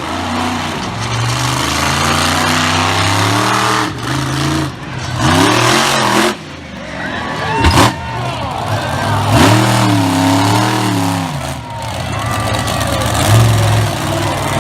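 Monster truck engine revving hard, again and again, its pitch surging up and falling back, with a sharp bang about 8 seconds in.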